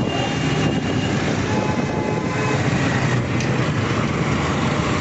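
Yamaha motorcycle on the move: steady engine and road noise.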